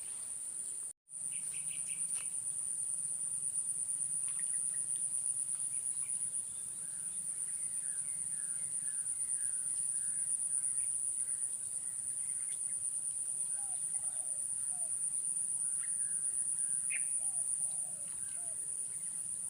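Steady, high-pitched insect drone with birds chirping and calling on and off over it. The sound cuts out briefly about a second in.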